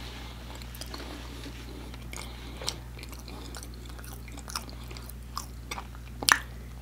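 A person chewing food with the mouth closed, with scattered short wet mouth clicks, the sharpest about six seconds in, over a steady low hum.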